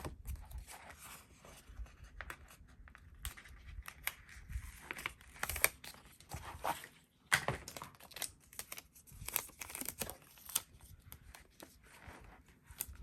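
Paper and a pre-cut sticker sheet being handled: irregular rustling and crinkling with short tearing sounds as a sticker is peeled off its backing, plus scattered light taps.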